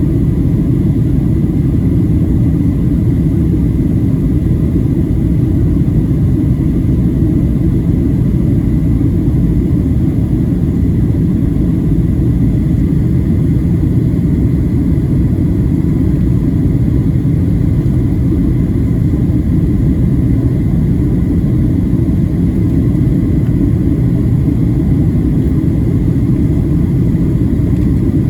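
Steady low rumble of cabin noise inside a Boeing 737-700 in descent, from its CFM56-7B engines and the airflow over the fuselage, with a faint steady high tone above it.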